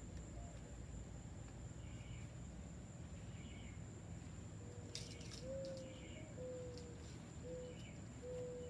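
Faint outdoor bird calls: short high chirps every second or so, and about halfway in a series of four low, drawn-out cooing notes, the first rising slightly and then falling. A thin steady high whine runs underneath.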